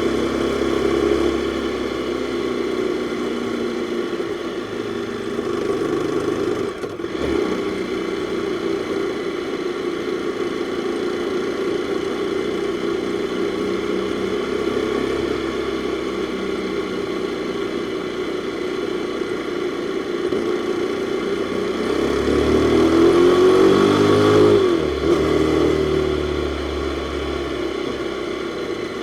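Jawa 42's single-cylinder four-stroke engine running steadily under way, with a brief drop about seven seconds in. About twenty-two seconds in it climbs in pitch and gets louder under acceleration, then falls away sharply.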